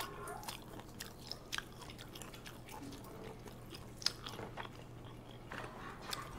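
A person chewing and biting food close to the microphone: scattered, irregular small clicks over a faint steady low hum.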